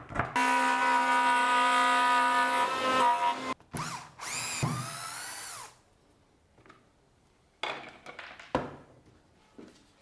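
Palm router running with a steady high whine for about three seconds, then briefly restarted and spinning down as its pitch falls. A few sharp knocks follow near the end.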